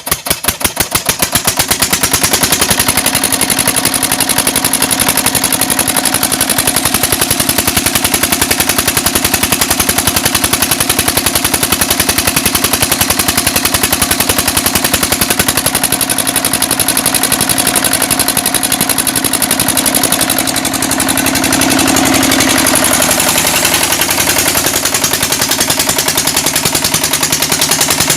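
14 hp single-cylinder diesel engine catching and picking up speed, its exhaust beats quickening into a rapid, even chug within the first couple of seconds, then running steadily. About twenty seconds in the level dips briefly and the engine note shifts before it settles again.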